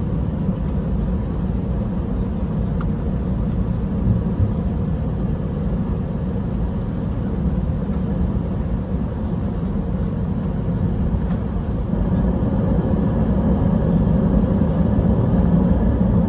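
Steady jet engine and airframe noise of an Airbus A320, heard inside the passenger cabin while the plane is on the ground waiting to take off. The rumble grows louder about twelve seconds in.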